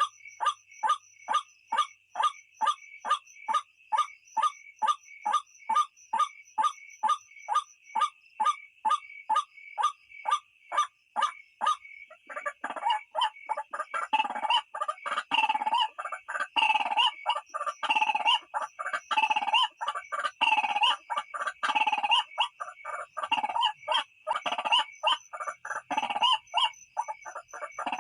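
White-breasted waterhen (ruak-ruak) calling: a rapid, even string of short repeated notes, about two to three a second. About twelve seconds in, the calling becomes louder and denser, with calls overlapping, over a steady high tone.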